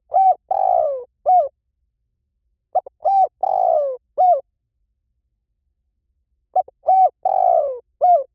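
Spotted dove cooing: a phrase of four or five short coos, one longer coo falling in pitch, repeated three times with silent gaps between. It is the call used to lure spotted doves.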